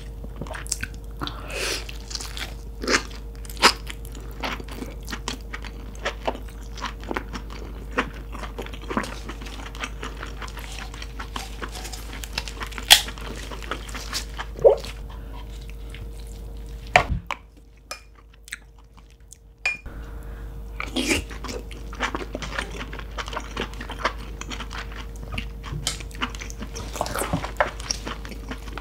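Close-miked chewing and biting of cooked lobster claw meat, with wet mouth clicks and smacks. A steady low hum runs underneath, and there is a short quieter gap about two-thirds through.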